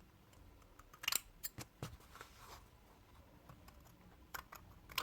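Scissors snipping loose threads and fluff from a neoprene wetsuit seam: a few faint, scattered sharp clicks, several close together about a second in and a couple more near the end.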